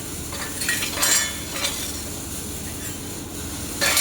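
Handheld air-cooled laser welder running a bead: a steady crackling sizzle over the constant hum of the machine, with a few louder crackles about a second in.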